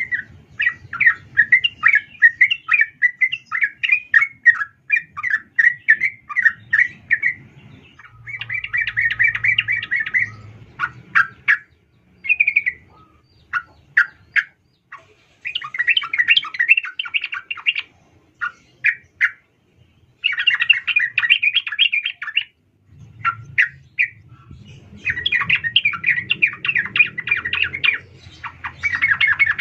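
Female yellow-vented bulbul (trucukan) calling: a fast run of chattering notes, then bursts of chatter and single sharp notes with short pauses between them.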